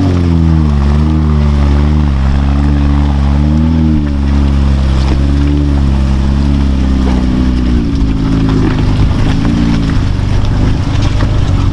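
Off-road truck engine revving up and down, its pitch rising and falling several times. About eight seconds in the engine note fades into a rougher rushing noise.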